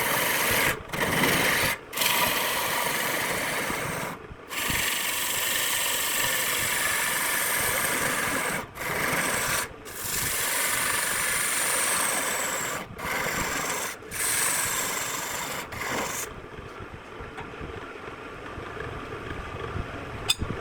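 Rough rubbing and scraping against wood turning on a lathe, in several stretches broken by abrupt cuts. From about sixteen seconds in only a quieter steady noise remains.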